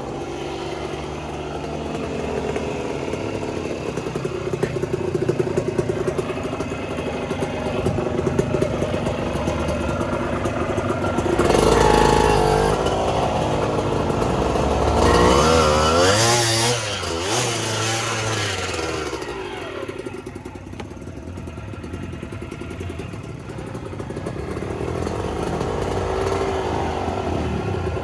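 Suzuki TS125X two-stroke single-cylinder trail motorcycle being ridden off-road, its engine revving up and down with the throttle, with louder surges about twelve and sixteen seconds in.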